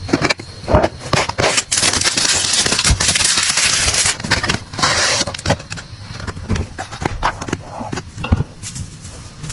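Items being handled and put away: a dense crackly rustle about two to five seconds in, among many sharp clicks and knocks that thin out toward the end.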